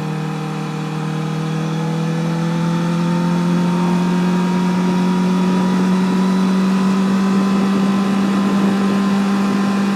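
Honda CBR1000RR's inline-four engine running steadily under way, its pitch rising slowly and evenly as the bike gently gains speed.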